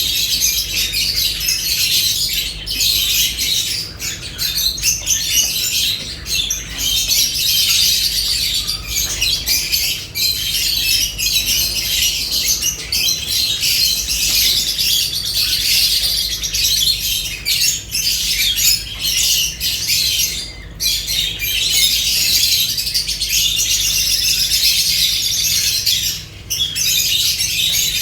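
A flock of lovebirds chattering and squawking continuously in a dense, high-pitched jumble of calls, over a faint low hum.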